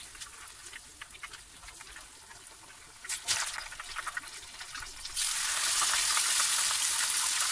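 Shiso and chilli tempura frying in a shallow pan of oil: a light crackle, a short louder spatter about three seconds in, then a battered shiso leaf goes into the hot oil and a loud steady sizzle starts about two seconds before the end.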